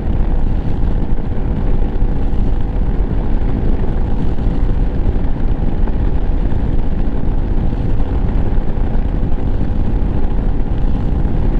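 Lifan KPM 200 motorcycle's single-cylinder engine running at a steady cruise while being ridden, with a steady drone over a low rumble.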